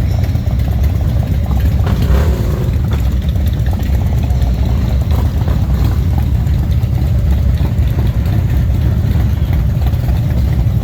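Harley-Davidson V-twin motorcycle engines idling, a steady low rumble.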